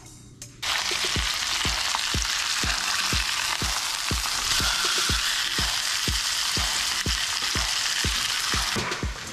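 Salmon fillets frying in a pan, a steady sizzle that starts suddenly under a second in, as a spatula turns and breaks up the fish. A steady beat of background music, about two beats a second, runs underneath.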